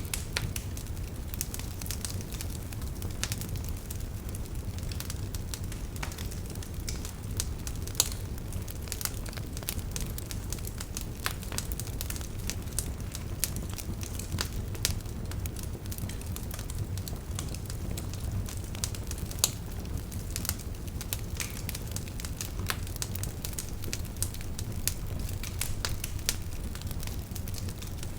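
Campfire crackling, with frequent sharp pops and snaps, a few louder than the rest, over a steady low rush of river water.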